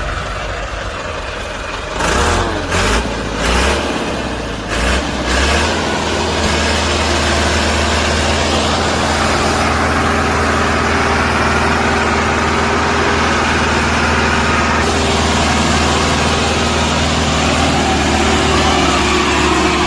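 A vehicle engine running steadily, with a few short knocks in the first few seconds before it settles into an even hum.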